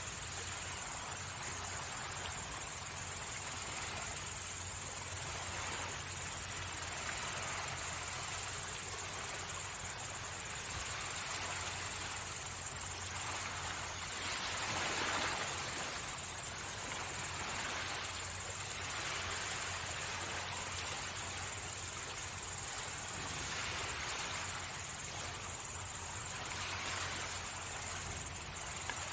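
Small sea waves washing onto the shore, swelling and fading every few seconds, the biggest about halfway through. Under them runs a steady high-pitched chirring of night insects.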